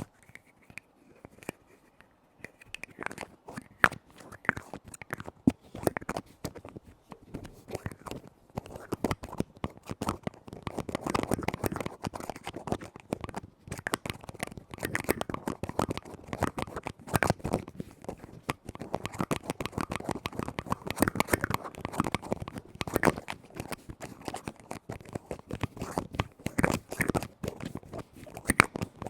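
Fingers rapidly tapping and scratching on lids, a dense run of small clicks that starts about three seconds in after a quieter opening.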